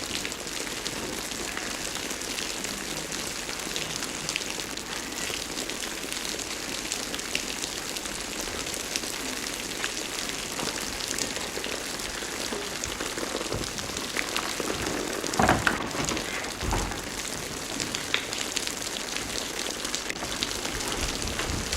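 Steady heavy rain falling, with a few brief louder sounds about three quarters of the way through.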